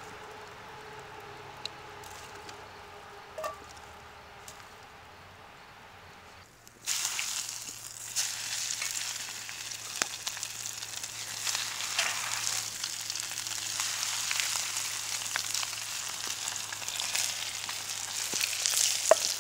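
Food frying in a hot pan. The sizzling starts suddenly about a third of the way in and keeps going with scattered small pops, after a quieter stretch with only a faint steady hum.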